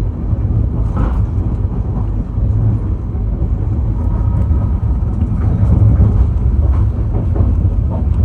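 Shatabdi Express train running past at speed, a loud steady low rumble of the coaches on the track.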